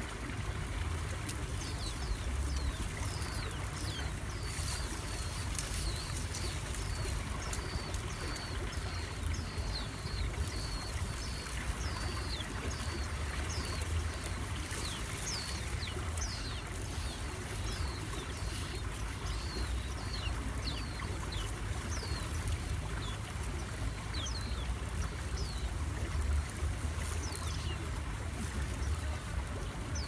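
Small birds at a reed nest chirping repeatedly: short, high, falling notes, about one or two a second, over a steady low rumble.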